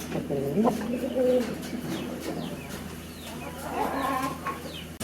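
Birds calling: low, wavering cooing or clucking calls about a second in and again near the end, over faint high chirps.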